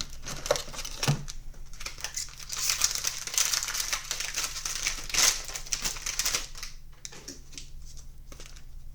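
Foil wrapper of a trading-card pack crinkling as it is handled, with small crackles and clicks.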